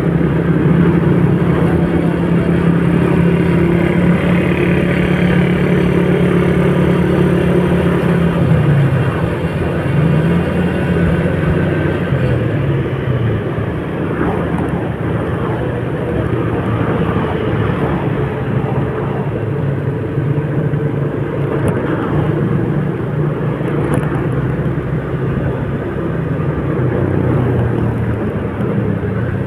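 Motor vehicle driving: a steady low engine hum with a continuous rush of road noise. The engine pitch dips and rises again about a third of the way in.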